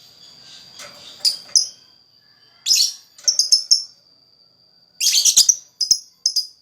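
Lakbet bird singing actively: repeated bursts of sharp, high chirps in clusters, the densest about five seconds in and quickening into short rapid notes near the end, over a thin steady high-pitched tone.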